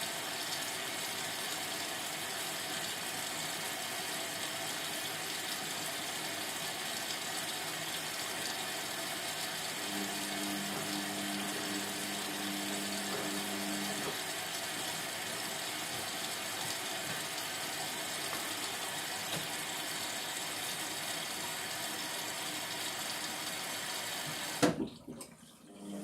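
Indesit MTWC71252WUK washing machine with a steady rush of water, typical of the machine filling mid-cycle. A low hum runs for a few seconds in the middle. A sharp click comes near the end, and the sound then drops away sharply.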